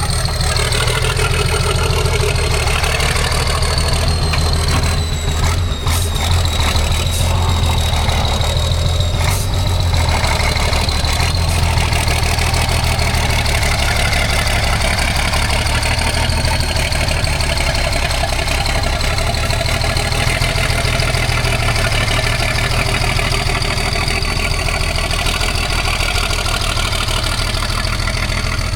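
Heavy off-road trial truck's diesel engine running steadily at low revs, with a steady high whine over it. A few short knocks come about six to nine seconds in.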